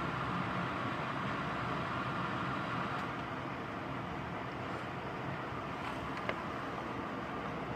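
Steady rain falling during a thunderstorm, a constant hiss with a couple of faint ticks.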